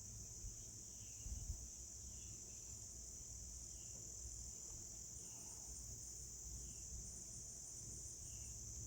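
Steady high-pitched insect chorus, like crickets, with faint short chirps about once a second over a low rumble.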